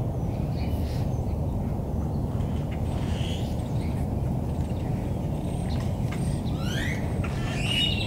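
Birds calling from bare trees: a few scattered squawky calls, then a run of quick rising calls near the end, over a steady low rumble.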